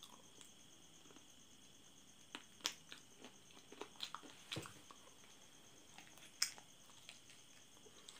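A person biting and chewing chicken feet: faint, irregular clicks and crunches, coming in a cluster from about a third of the way in, with one sharp crunch near the three-quarter mark.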